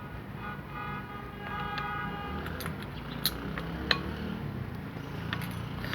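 Steady workshop background noise with faint tones in the distance, and two light metallic clinks a little past the middle as differential parts are handled.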